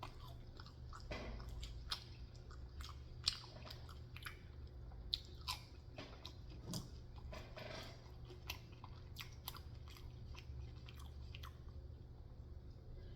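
Close-miked chewing and biting of fast food: many irregular wet mouth clicks and smacks, with a steady low hum underneath.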